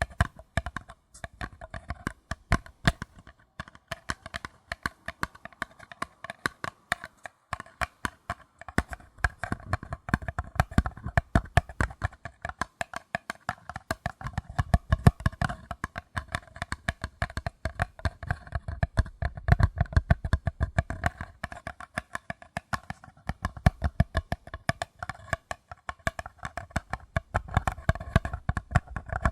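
Fingers tapping rapidly and lightly on paper cups, many quick taps a second, each with a short hollow ring. In stretches a deeper, duller thud sounds beneath the taps.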